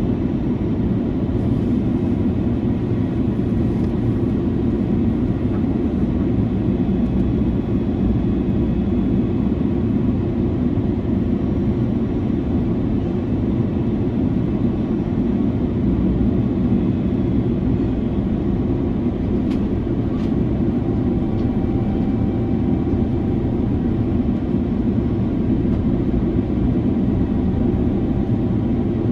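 Airbus A330-300 cabin noise at cruise: the steady low rush of airflow and the Rolls-Royce Trent 700 engines, unchanging throughout, with a couple of faint clicks a little after two-thirds of the way in.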